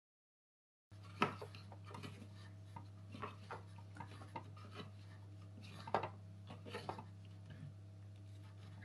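Hands working at a washing machine's drain filter make irregular small clicks, taps and scrapes of plastic over a steady low hum. The sharpest click comes about a second in, another near six seconds. The sound starts abruptly after a second of dead silence.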